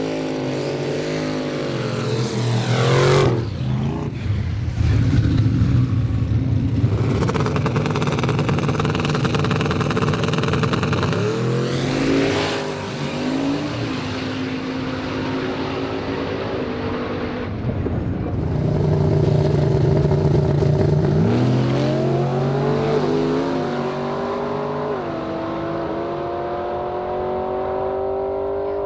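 A car engine running hard and revving, its pitch sweeping up and down. Near the end it climbs in steps with short drops between them, like gear changes under acceleration.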